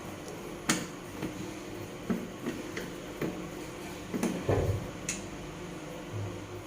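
Scattered clicks and knocks of hands and a screwdriver working at a water heater's plastic cover as its screw is undone, with a clatter a little after four seconds in.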